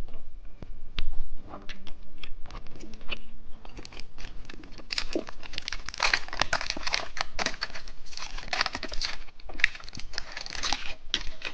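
Plastic candy wrapper being crinkled and torn open by hand. A few light clicks and rustles at first, then steady, dense crinkling from about four seconds in.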